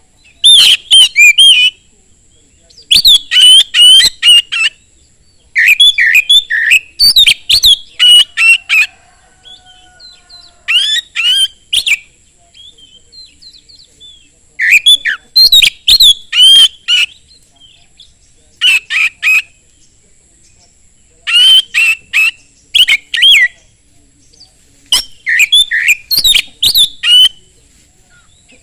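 Oriental magpie-robin (kacer) singing vigorously in loud bursts of rapid, varied whistled phrases, each lasting a second or two with short pauses between.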